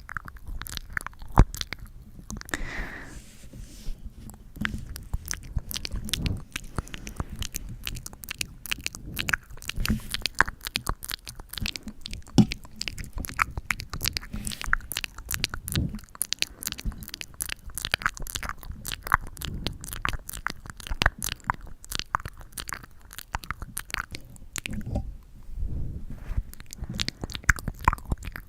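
Close-up sticky ASMR sounds: a tacky surface touched and pulled apart right at the microphone, making dense, irregular crackling and small clicks.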